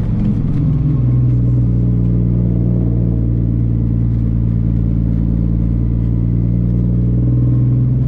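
Semi truck's diesel engine running at a steady speed while pulling a load of precast concrete walls: a low, even drone that settles about a second in.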